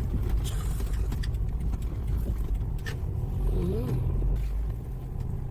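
Car rolling slowly, with a steady low engine and road rumble. A few light clicks and a brief wavering tone come a little past the middle.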